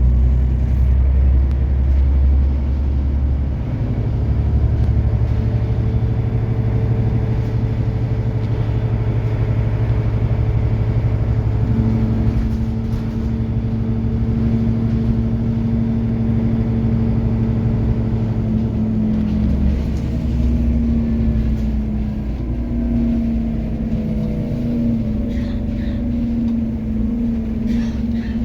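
Scania OmniCity city bus running, with a steady low engine drone. A steady whine comes in about twelve seconds in and shifts in pitch several times toward the end.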